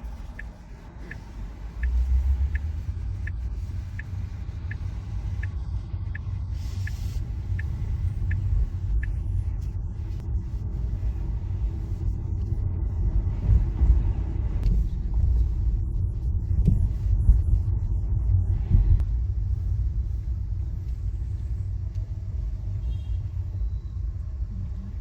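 Tesla electric car driving, a steady low rumble of tyre and road noise. For the first nine seconds a light, regular tick repeats about every two-thirds of a second.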